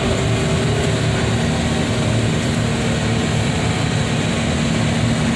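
An engine running steadily, with a low rumble and an even hum that does not change.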